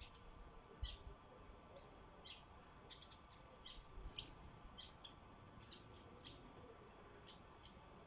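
Sparrows chirping at a feeder: about fifteen short, scattered chirps, with a couple of soft low bumps about a second in and near the middle.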